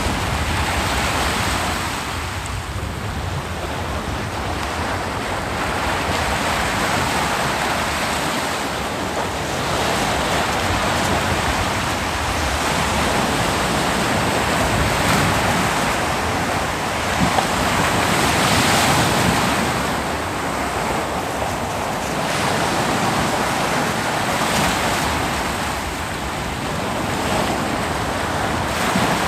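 Ocean surf breaking and washing up a beach: a continuous rush of water that swells and eases every few seconds.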